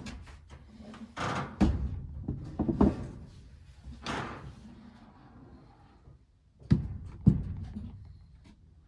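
Wooden pieces knocking and thudding: a scatter of knocks through the first few seconds, then two sharp knocks about half a second apart, the loudest of them.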